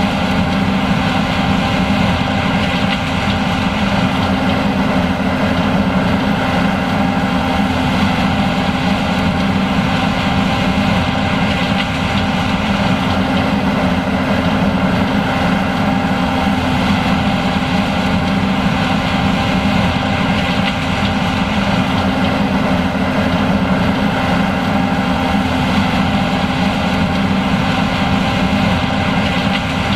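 John Deere S780 combine running steadily at working speed while harvesting corn. It is a constant machine drone with steady whining tones over a strong low hum, and no changes in speed.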